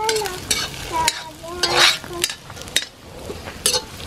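Chopped onion with garlic, ginger and green chillies frying in hot oil in a pan, sizzling while being stirred, with scattered clicks and scrapes of the spoon against the pan.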